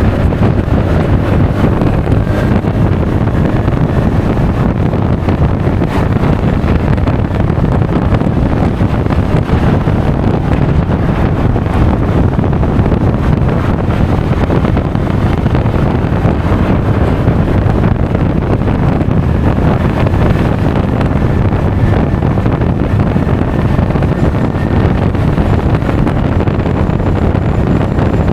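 Steady wind noise buffeting an action camera's microphone on a moving Honda Forza 350 scooter, a dense low rush. The scooter's engine and tyre noise run beneath it.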